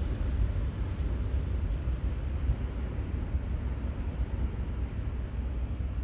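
Outdoor seaside ambience: a steady low rumble with a faint repeated high chirping.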